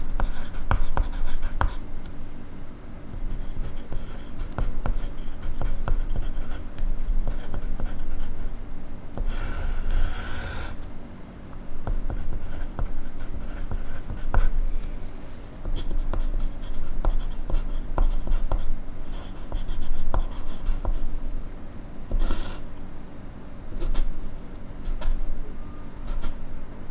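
Pencil writing on paper: irregular scratching strokes, with a short, louder rustle about nine seconds in and another near the end.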